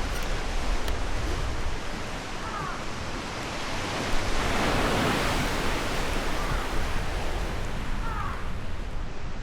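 Ocean waves breaking and washing ashore, one wave surging up about halfway through and then drawing back. A low wind rumble runs underneath, and a few short high chirps come through.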